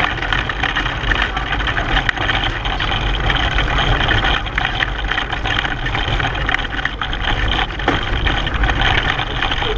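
Steady rumble and rattle of a racing pedal car rolling along the course, heard from a camera mounted on the car.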